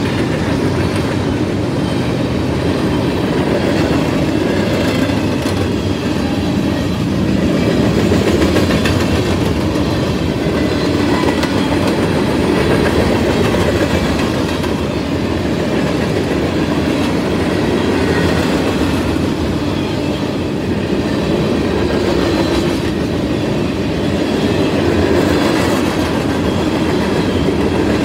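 Covered hopper and tank cars of a fast freight train rolling past close by: a loud, steady noise of steel wheels running on the rails.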